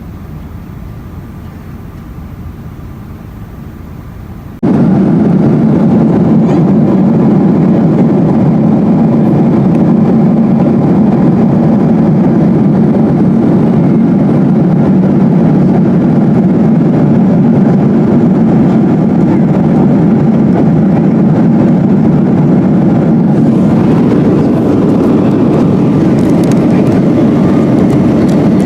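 Steady rushing noise of a Boeing 777-200 heard from inside the cabin. About five seconds in it jumps abruptly to much louder, then holds level.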